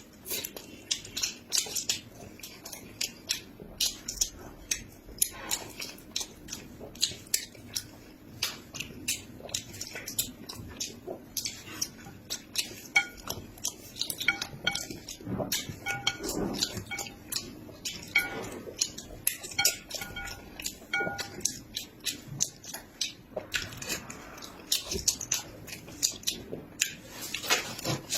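Close-up eating sounds: frequent sharp clicks of utensils on dishes, mixed with chewing and biting.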